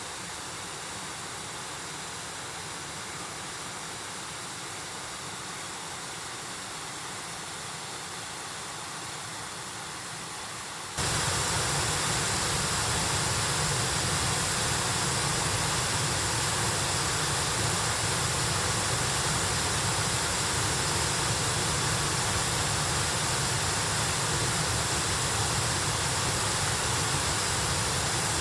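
Mountain stream water rushing over rocks in a steady, even roar. About eleven seconds in it abruptly becomes louder and fuller, as from a stronger stretch of rapids.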